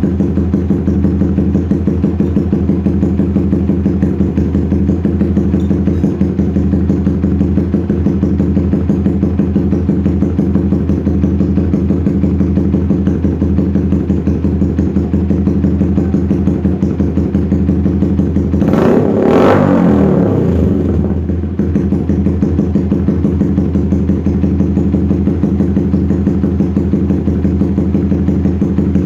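Yamaha Vixion motorcycle engine idling steadily while warming up, through an SC Project S1 racing exhaust with the dB killer removed. About two-thirds of the way in there is one short blip of the throttle that rises and falls back to idle.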